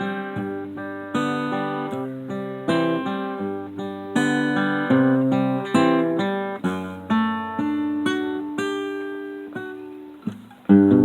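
Acoustic guitar playing a slow run of chords, each one struck and left to ring and fade. The playing pauses briefly near the end, then a louder chord is struck.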